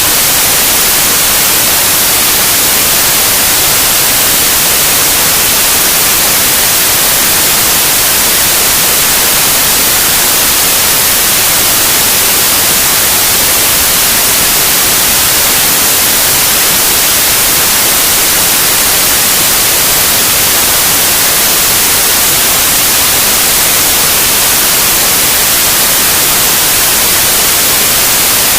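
Loud, steady white noise: an even hiss across all pitches, unchanging throughout.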